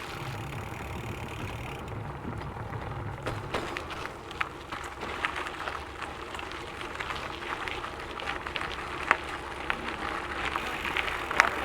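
Gravel bike tyres rolling over a loose gravel track: a steady rumble with many scattered sharp ticks and rattles from stones and the bike.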